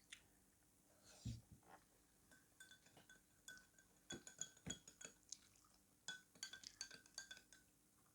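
Faint clinking of metal cutlery against a ceramic or glass dish, each tap ringing briefly at the same pitch, in several quick clusters, with a couple of soft knocks.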